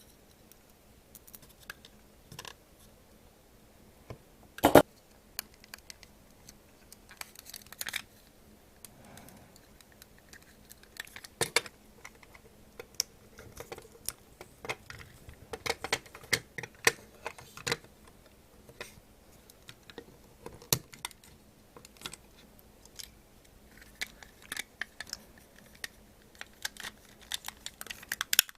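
Small plastic parts and hand tools being handled while the internal wiring of a Plarail toy train is replaced: scattered light clicks, taps and scrapes, with one louder knock about five seconds in and busier stretches of clicking in the middle and near the end.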